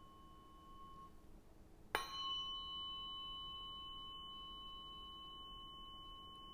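Tuning fork: a ringing tone fades out about a second in, then the fork is struck again about two seconds in, a sharp tap followed by a steady high ringing tone with a fainter higher ring above it, slowly dying away.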